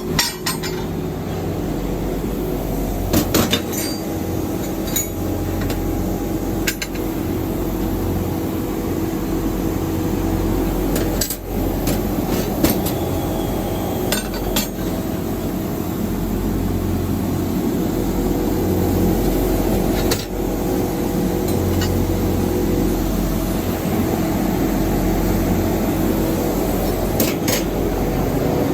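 Steady machinery hum in a metal workshop, with scattered sharp metallic clanks and clinks from steel parts being struck or handled, about a dozen spread through the stretch.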